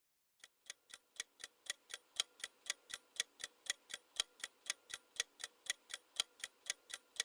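Ticking clock countdown sound effect, a steady tick-tock at about four ticks a second with alternate ticks louder, counting down the time to answer a quiz question. It fades in over the first second.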